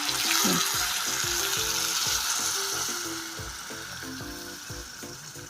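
Food frying in hot oil in a pan: a loud sizzle that surges as ingredients go in and dies down gradually after about three seconds.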